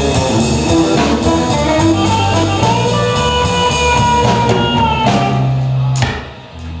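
Live rock band playing an instrumental passage: guitar over a drum kit keeping a steady cymbal beat, with one long held note in the middle. A sharp closing hit comes about six seconds in, and the sound then drops away.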